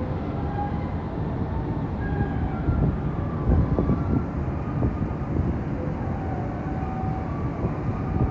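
Steady low rumble of a large car ferry getting under way, with a few faint short tones over it.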